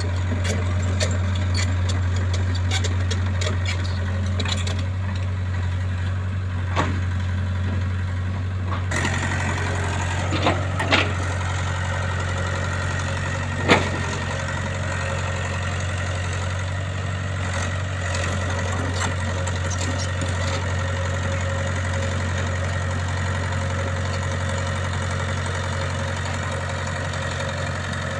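A heavy machine's engine idling steadily; its tone changes slightly about nine seconds in. A few short sharp clicks are heard, the loudest about fourteen seconds in.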